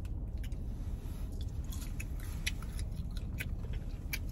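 Someone chewing potato wedges close to the microphone: scattered faint clicks and smacks of the mouth over a low steady hum.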